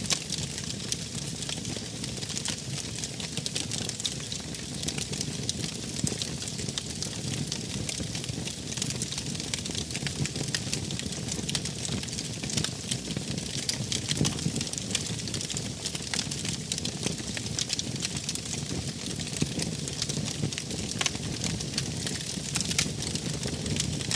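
Wood fire crackling: a steady hiss dotted with frequent small pops and snaps.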